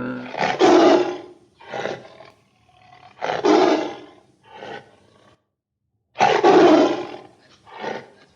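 A big cat roaring: three loud roars, each followed by a shorter, weaker one, with a pause of about a second before the last pair.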